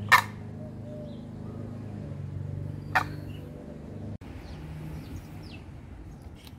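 Two short, sharp bird calls about three seconds apart, over a steady low hum.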